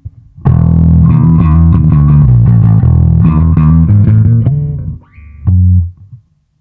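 Yamaha SBV-550 electric bass played through a Line 6 Bass POD: a quick run of notes for about four seconds, then one last short note near the end that is cut off.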